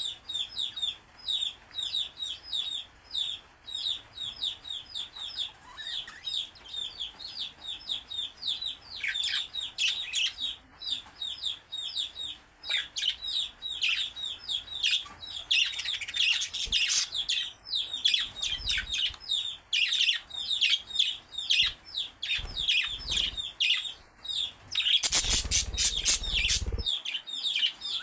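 Two budgerigars chattering in a fast stream of short, high chirps and warbles, several to the second. Near the end there is a loud rustling noise lasting about two seconds.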